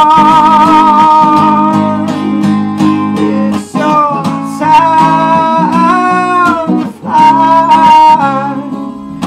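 Acoustic guitar strummed under a solo sung melody: a long held note with vibrato to about two seconds in, then more long sung notes with vibrato after a short gap.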